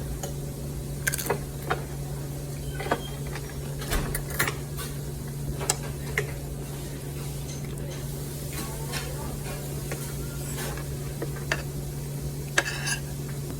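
Close-up eating sounds from a Mexican food meal: chewing and mouth noises with scattered short clicks and taps, over a steady low hum.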